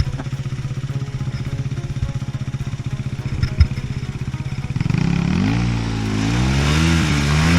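Dirt bike engine ticking over at a low, steady beat, with a single sharp knock about three and a half seconds in. From about five seconds a dirt bike engine revs up and down in pitch and grows louder.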